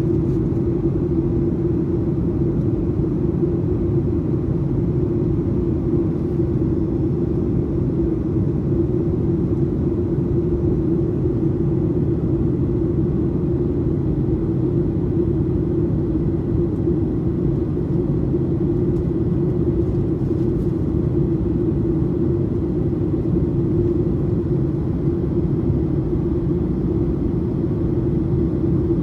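Steady cabin noise inside a Boeing 737-800 in flight: the drone of airflow and engines, with a constant low hum running through it.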